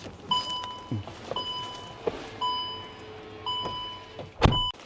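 Warning chime in the cab of an Isuzu electric truck, one beep about every second. A heavy thump comes near the end.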